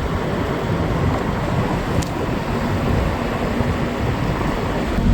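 Steady, loud rumbling noise with no distinct tones or strokes.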